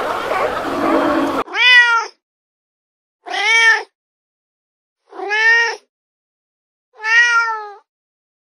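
Domestic cat meowing four times, each meow a drawn-out call that rises and then falls in pitch, with clean gaps between them. Before that, a noisy sound with no clear pitch cuts off abruptly about a second and a half in.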